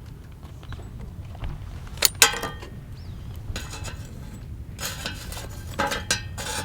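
Camp cookware and coffee utensils being handled: two sharp metal clinks about two seconds in, then several short bouts of clattering and rustling, over a steady low rumble.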